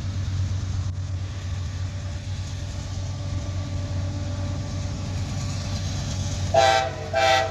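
Diesel freight locomotive running with a steady low rumble as the train approaches. Near the end its multi-tone air horn sounds two short blasts, a friendly honk at the trackside railfan.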